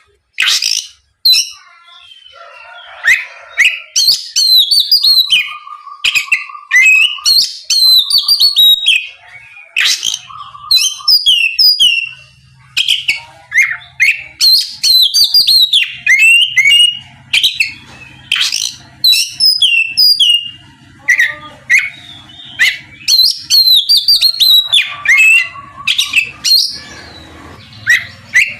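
Oriental magpie-robin (kacer) in full, loud song: phrase after phrase of rapid whistled notes sliding up and down, with short pauses between. A faint low hum comes in about twelve seconds in.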